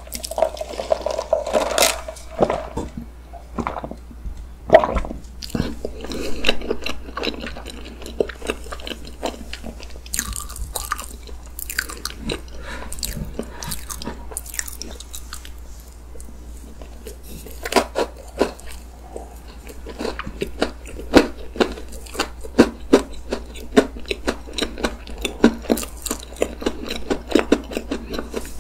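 Close-miked chewing of chocolate cake with whipped cream, the crunchy chocolate bits in the layers crackling between the teeth in irregular bites. Near the start, iced coffee is sipped through a straw.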